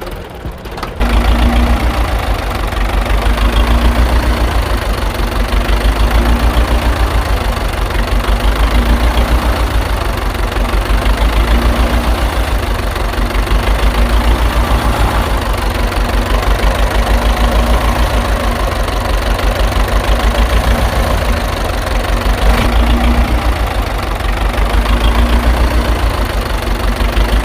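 Small motor of a homemade miniature tractor and chaff-cutter model running steadily with a fast, even pulsing hum, starting about a second in.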